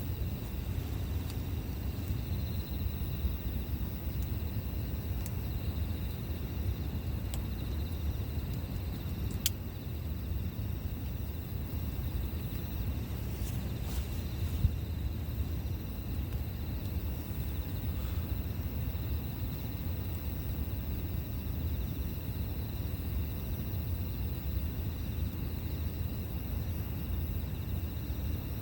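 Campfire burning: a steady low rush with a few sharp crackles and pops from the wood, one of them about a third of the way in.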